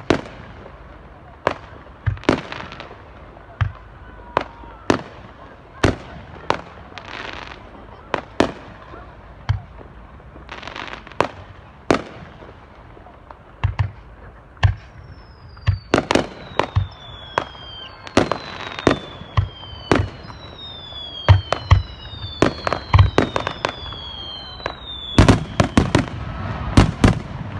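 Aerial fireworks shells bursting with sharp bangs, about one a second at first, then faster and in clusters. From about halfway in, several high whistles fall in pitch among the bangs.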